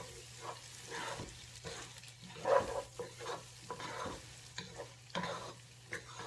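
Lentils frying and sizzling in a pot while a utensil stirs and scrapes them, in irregular strokes about once a second, the loudest a little past two seconds in. A faint steady low hum runs underneath.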